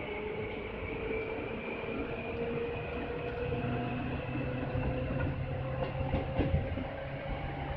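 Seibu 2000 series electric train heard from on board while running, its motor and gear whine slowly rising in pitch as it gathers speed over a steady rumble of wheels on rail. A few wheel clicks come near the end.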